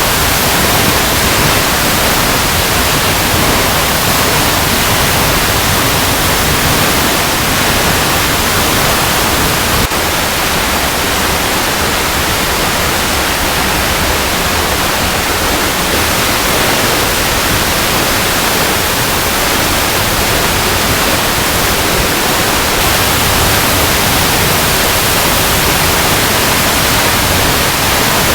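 Waterfall cascading over rocks: a steady, even rush of falling water, with a slight brief dip in level about ten seconds in.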